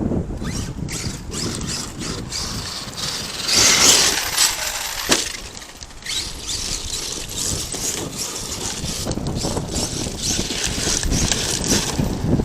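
Arrma Kraton 8S radio-controlled truck driving over dirt and gravel, its tyres and drivetrain crunching and rattling with many small clicks, louder for a moment about four seconds in.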